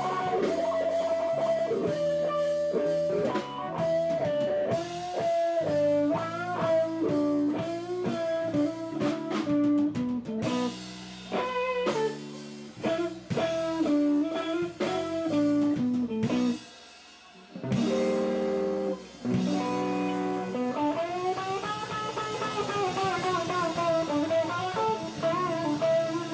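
Live blues trio with electric guitar, bass and drums playing an instrumental. The guitar plays single-note lead lines, stops briefly about two thirds of the way in, then comes back with long bent notes.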